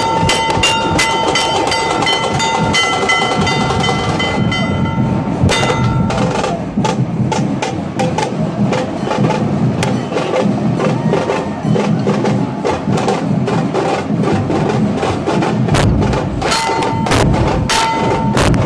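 Nashik dhol drumming: a dense, driving rhythm of heavy beats and sharp cracking strokes. A sustained high-pitched tone sounds over it for the first few seconds and comes back near the end.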